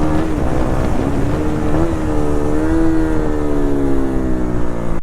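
Motorcycle engine running under way at fairly steady revs, its pitch easing down and back up a little, about a second in and again near the middle.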